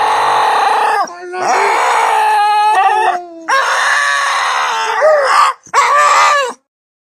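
A dog howling in four long, drawn-out calls whose pitch bends up and down, the last one shorter and cut off abruptly.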